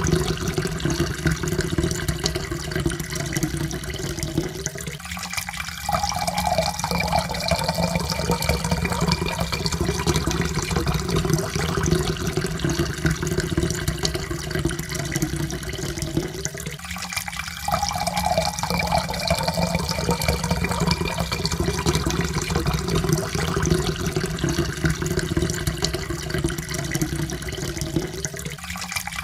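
Water pouring steadily into a cup, with a faint tone that climbs slowly in pitch as the cup fills. The pour breaks off briefly and starts again about every twelve seconds.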